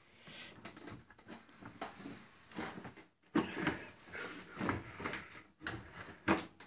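Outer panel of a dishwasher door being worked loose and pulled off by hand: irregular clunks, scrapes and rattles of the panel, with sharper knocks about three seconds in and near the end.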